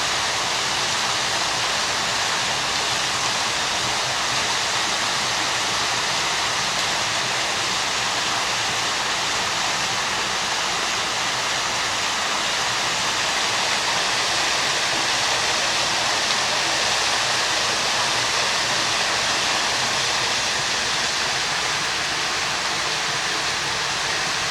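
Water falling steadily from a backyard rock waterfall into a pool.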